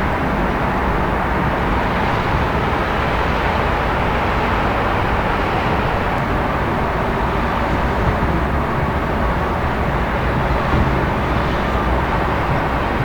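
Steady city traffic rumble: a continuous wash of distant vehicle noise with no single event standing out.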